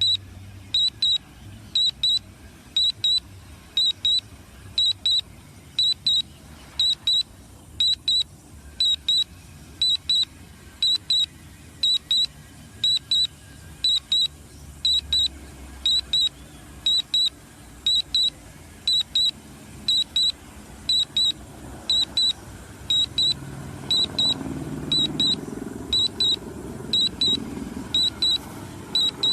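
Drone remote controller sounding a warning alarm: a high double beep repeated about once a second. Underneath, a low hum grows louder over the last several seconds.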